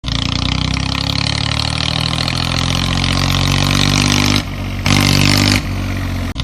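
A vehicle engine running steadily with a low, even hum that drifts slightly in pitch. It drops abruptly, comes back louder, then drops again in the last couple of seconds.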